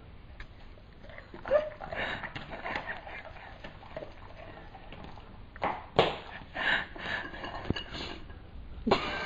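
Clinks and knocks of cutlery against a dish, in two short clusters, with a brief pitched cry or vocal sound near the end.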